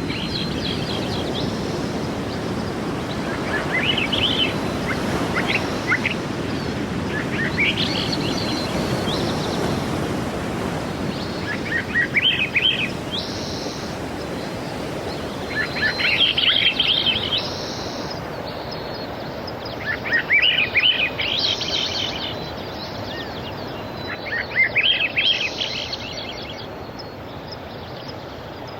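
A songbird singing short, quick phrases about every three to four seconds over a steady wash of sea surf. The surf grows quieter toward the end.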